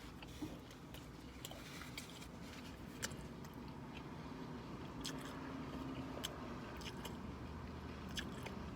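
A person chewing a mouthful of burger, with scattered wet clicks and smacks of the mouth, over a steady low hum.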